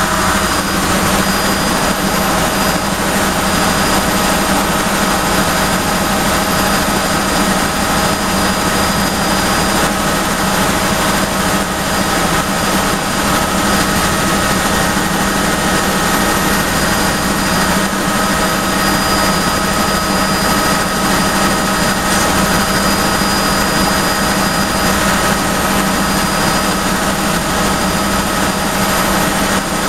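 Helicopter in flight: a loud, steady drone of engine and rotor with a constant high whine, unchanging throughout.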